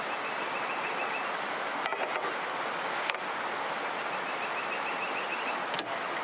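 River water flowing: a steady rushing. A faint, rapid high-pitched chirping comes twice, and a few sharp clicks stand out.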